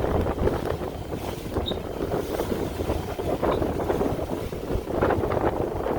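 Strong wind, about 20 knots, buffeting the microphone aboard a sailboat at sea in rough conditions, rising and falling in gusts.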